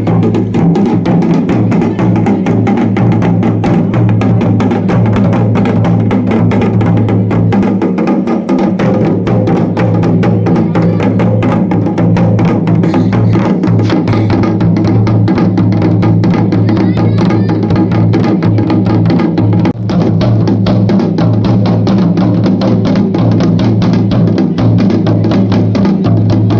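Dhol and damau drums beaten fast and loud in a dense, continuous rhythm.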